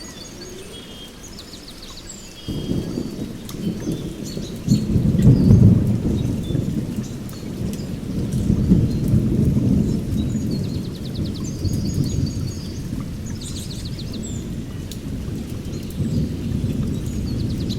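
Thunder rolling in over steady rain: a low rumble sets in abruptly about two and a half seconds in, is loudest around five to six seconds, then rolls on and slowly eases. Birds chirp high above it now and then.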